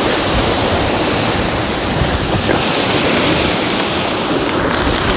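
Steady rushing noise of wind and water outdoors, with wind buffeting the microphone.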